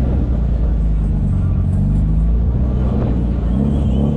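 Car driving: a steady, loud, low engine and road rumble.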